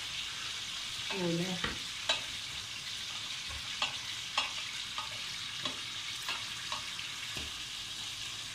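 Steady sizzle of green peppers frying in hot oil, with about ten sharp, irregular knife clicks as an onion is chopped by hand over a steel pot.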